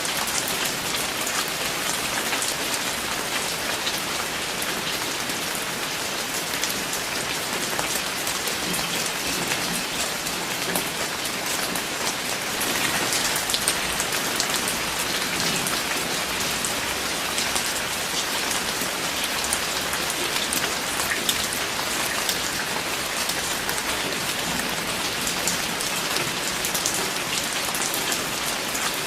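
Steady rain falling, a dense patter of many drops hitting a surface, slightly heavier for a few seconds around the middle.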